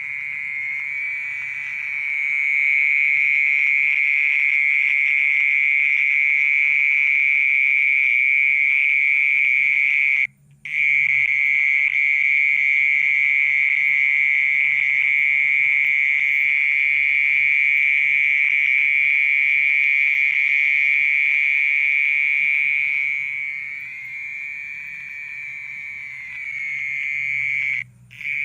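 Mole cricket singing from its burrow in the ground: a continuous high, buzzing trill that stops briefly about a third of the way in and again near the end, and grows weaker for a few seconds before the second stop.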